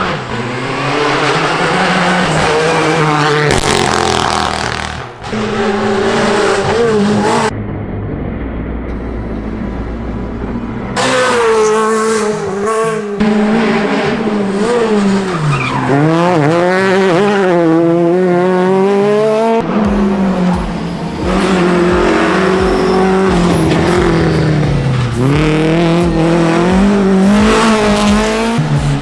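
Rally cars driven flat out on a stage, their engines revving hard and dropping back through gear changes, with tyres squealing. There are several separate passes, and the sound changes abruptly between them, about a third of the way in and again past the halfway point.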